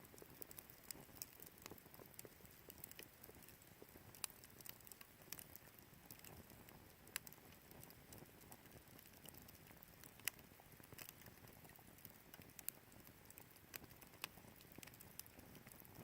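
Wood fire crackling in a Picogrill 398 fire pit: irregular sharp pops and snaps, a few louder ones, over a faint hiss.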